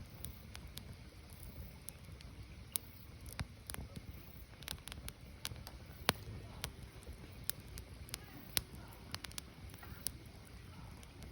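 Firewood burning: irregular sharp crackles and pops over a low, steady rumble, with a few louder pops, the sharpest about six seconds in.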